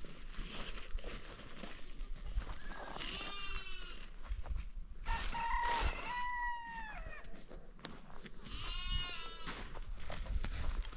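Goats bleating: three drawn-out, wavering bleats, a few seconds apart.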